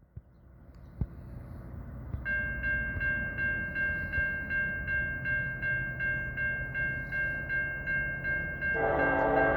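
Railroad crossing bell starts ringing about two seconds in, an even clang about three times a second, over the rising rumble of an approaching freight train. Near the end the lead locomotive, an EMD SD70M-2, sounds its air horn loudly.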